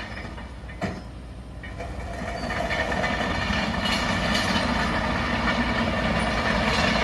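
Heavy diesel vehicle engine running, growing louder from about two seconds in and then holding steady, with a short click about a second in.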